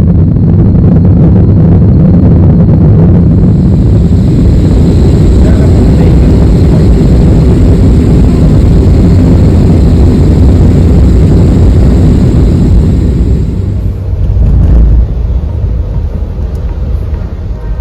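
Loud, steady rumble of an aircraft, with a faint high hiss over it from about four to fourteen seconds in. It eases off and becomes uneven near the end.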